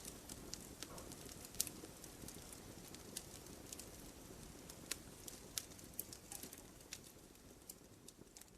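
Wood fire in a brazier crackling, with sharp irregular pops over a soft low hiss. The loudest pop comes about a second and a half in, and the sound fades gradually toward the end.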